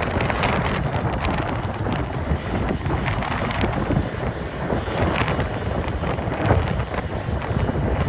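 Wind buffeting the microphone: a loud, rough, gusting rumble with no clear engine tone.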